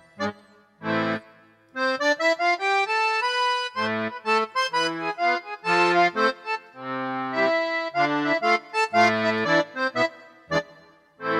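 Casio AiX keyboard playing an accordion tone. A rising run of single notes comes first, then short low bass notes alternating with short chords, dying away near the end.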